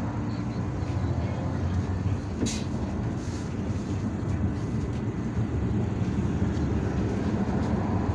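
IVECO Urbanway 18M articulated city bus under way, heard from inside the cabin: a steady low rumble of engine and road noise, with one short click about two and a half seconds in.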